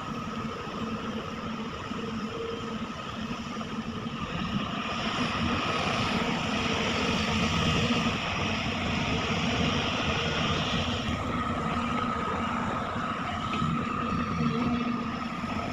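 Sumitomo SH350 hydraulic excavator working, a steady diesel drone with a high whine over it. It gets louder for several seconds in the middle, as under heavier load.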